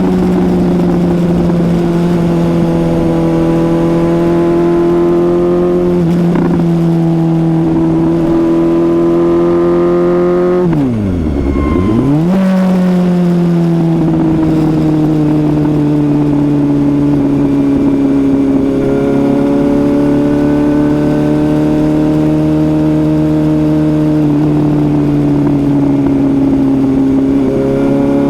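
Suzuki GSX-S750's inline-four engine running at a steady cruise under way, its pitch drifting slowly up and down. About eleven seconds in, the engine note drops sharply and climbs straight back within about a second and a half.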